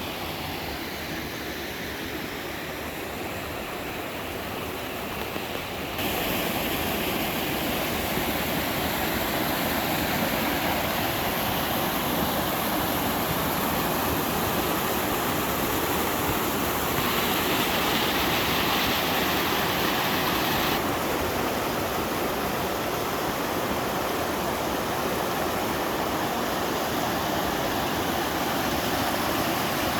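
Mountain stream water rushing over rocks and a small waterfall into a pool, a steady, even rush. It jumps louder about six seconds in and turns brighter and hissier for a few seconds past the middle, as the sound shifts between spots along the stream.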